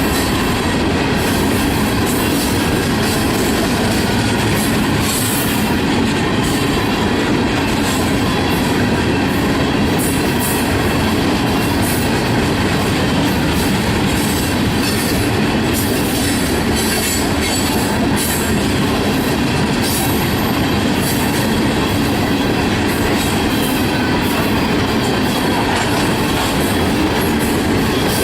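Freight train cars rolling past at steady speed: a continuous rumble of steel wheels on rail, with the clatter of wheels over rail joints.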